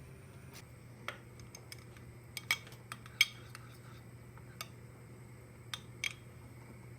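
Scattered light clinks and knocks of hard objects being handled, like cutlery or dishes, about nine in all, the loudest two a little past two and a half and three seconds in, over a low steady hum.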